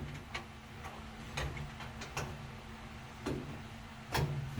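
Scattered light clicks and taps of a screwdriver and screws being handled, about one a second, over a faint steady low hum.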